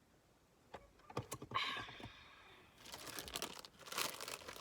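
Dense, crisp crackling and clicking of hot Cheetos being handled and eaten close to the microphone: a few sharp clicks at first, growing into a thick crackle in the second half.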